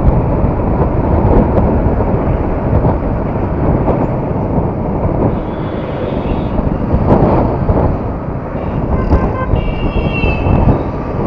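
Yamaha R15 motorcycle under way: steady engine and road noise with wind rushing over the microphone, a short high tone sounding between about nine and eleven seconds in.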